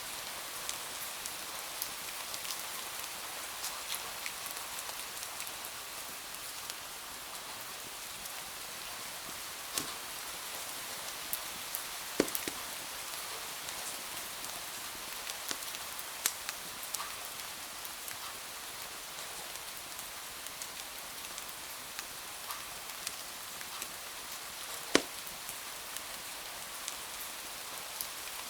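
Steady rain with a wood fire's occasional sharp crackles and pops; the two loudest come about 12 and 25 seconds in.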